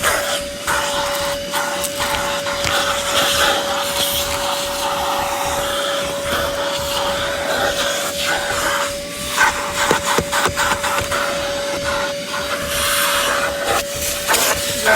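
Car wash vacuum running with a steady whine and rushing suction, its level shifting as the nozzle is worked over surfaces, with scattered short knocks and scrapes from the nozzle.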